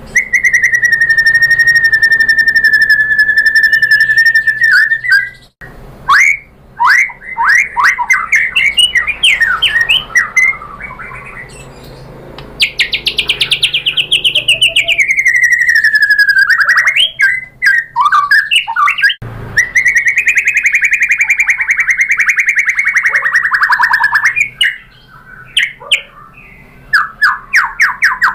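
White-rumped shama (murai batu) singing loudly. A long buzzing note is held for about five seconds, then come bursts of fast sweeping whistles and a long falling trill, then another long buzzing note two-thirds of the way in, and more quick whistles near the end.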